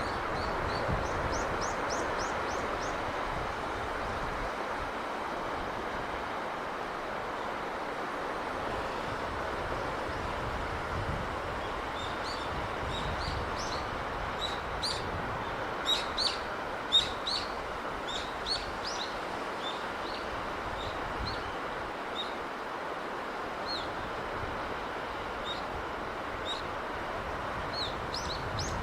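Steady rushing noise of sea breeze, with small birds chirping over it: a quick trill near the start, a flurry of sharp chirps around the middle, and another trill at the end.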